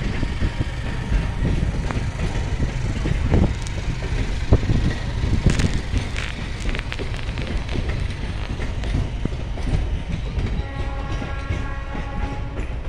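Indian Railways express train's coaches rolling past as it pulls into the station: a steady low rumble with wheels clacking irregularly over rail joints. A steady pitched tone joins near the end.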